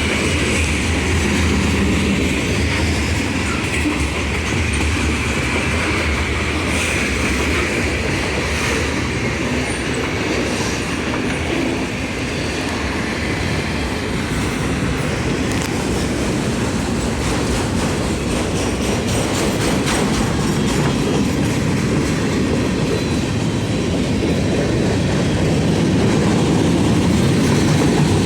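Norfolk Southern freight train rolling past at steady speed, a continuous rumble of wheels on rail with clacking over the rail joints, and a thin wheel squeal in the first few seconds.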